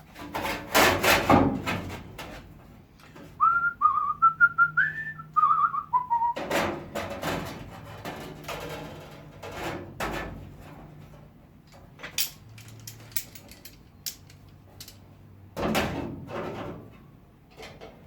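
A man whistling a short tune for about three seconds, amid repeated metallic clanks and clicks of hand clamps being handled and set on a steel panel.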